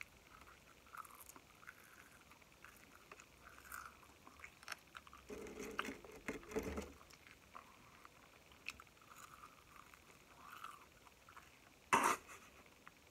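Eating sounds held close to the mic: soft chewing and wet mouth clicks with scattered small crackles. A louder stretch comes about five to seven seconds in, and a short, sharp, loud sound near the end.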